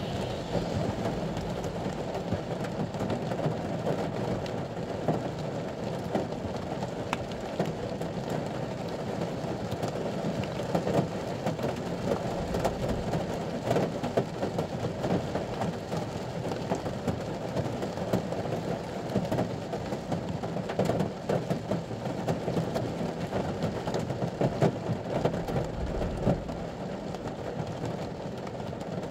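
Rain drumming on a ute's cab, heard from inside: a dense, steady patter of many drop hits that swells and eases. A brief low rumble comes near the end.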